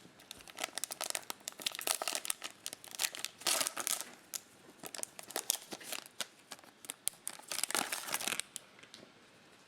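Foil trading-card pack wrapper being torn open and crinkled by hand, with a run of crackling and rustling that dies down near the end.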